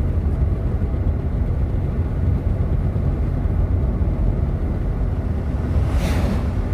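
Steady low rumble of road and engine noise inside a moving car's cabin, with a brief hiss about six seconds in.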